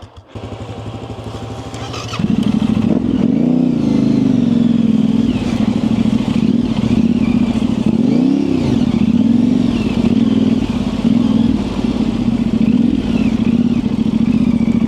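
Yamaha Ténéré 700's 689 cc parallel-twin engine, fitted with an aftermarket high-mount exhaust, idling for about two seconds and then pulling away, running louder with the revs rising and falling over and over, one clear surge and drop near the middle.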